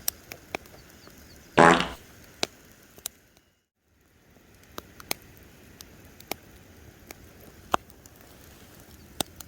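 Campfire crackling, with sharp pops scattered irregularly. About one and a half seconds in there is one short, loud, low buzzy blurt, and a little before four seconds the sound drops out completely for about half a second.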